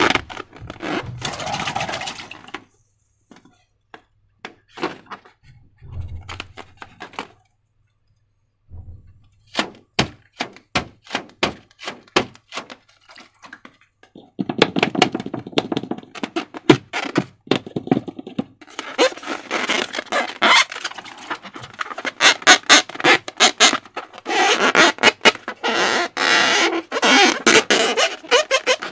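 Slime and balloons being worked by hand: irregular wet, sticky clicks and crackles, scattered at first and then coming thick and fast through the second half.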